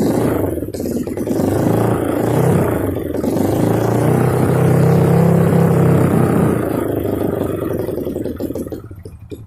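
Single-cylinder four-stroke engine of a Kawasaki KLX 200cc trail bike running through an Over Racing aftermarket exhaust. It is revved up and down in the first few seconds, held at higher revs for a couple of seconds in the middle, then eases off and fades near the end.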